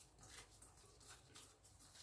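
Near silence, with a few faint, soft rustles and light taps.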